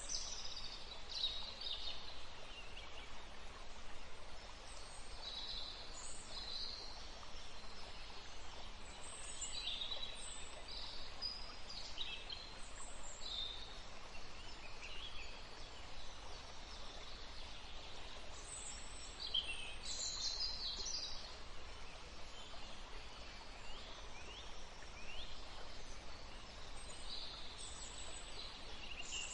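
Songbirds singing and chirping, short high calls and trills coming in several overlapping voices throughout, over a steady background hiss.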